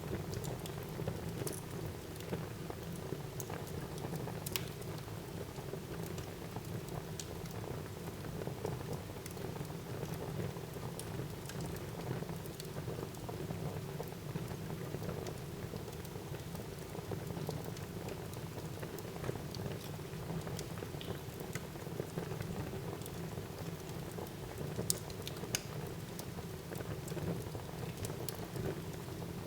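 Fire burning in a fireplace: a steady rustling hiss with scattered sharp crackles and pops, a few louder pops near the end.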